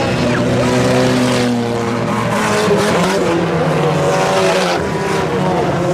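Several IMCA Sport Compact race cars' four-cylinder engines running together at fairly steady speed, their overlapping engine notes at different pitches.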